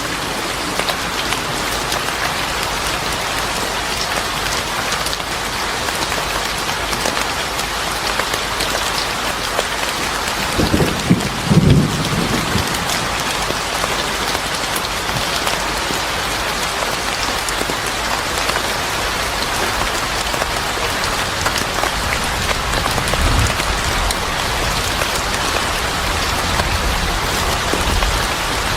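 Steady rain falling on a surface, with a brief low rumble about a third of the way in and more low rumbling near the end.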